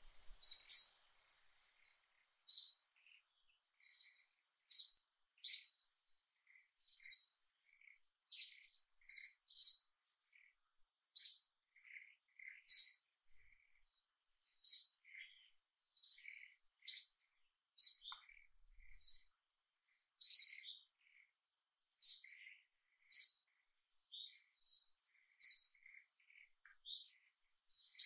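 A small bird chirping repeatedly: short, high, sharp chirps, about one a second and irregularly spaced, sometimes in quick pairs.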